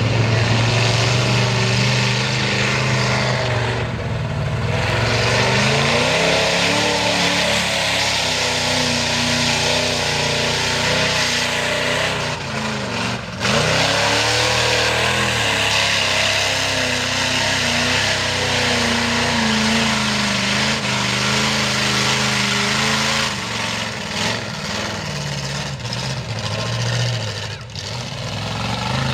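Mega truck engine running hard and revving, its pitch climbing and falling several times, with a dip about thirteen seconds in, under a steady rushing hiss.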